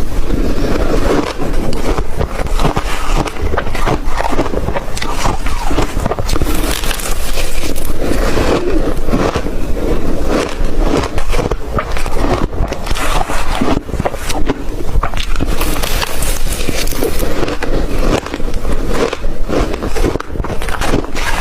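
A person chewing crunchy ice close to the microphone: continuous loud crunching and crackling of ice breaking between the teeth.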